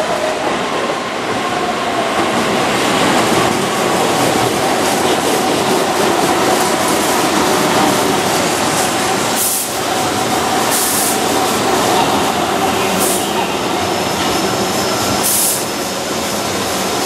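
Keihan electric commuter train (set 2624–2803) running past over curved track: a steady rumble of wheels on rail, with a few brief high-pitched hisses in the second half.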